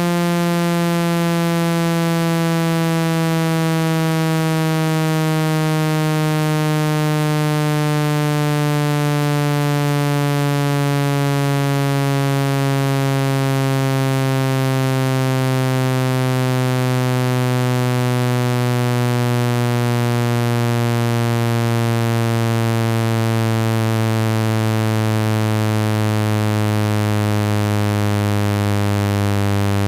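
Synthetic speaker-cleaning tone: a low, buzzy tone full of overtones, gliding slowly and steadily down in pitch. It is meant to be played at full volume through a phone speaker so the vibration shakes water droplets and dust out of the speaker grille.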